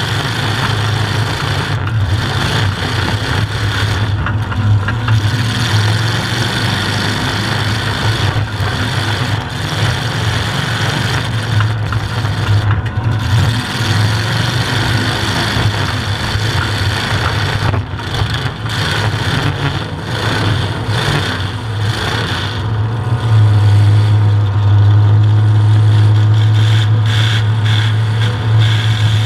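Demolition derby car's engine running at a steady idle, heard from inside the stripped cab, getting louder about two-thirds of the way through.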